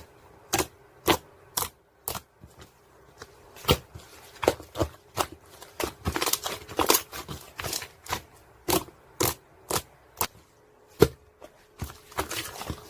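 Sharp clicks and crackles at irregular intervals, one or two a second, thickening into denser crackling about six seconds in and again near the end.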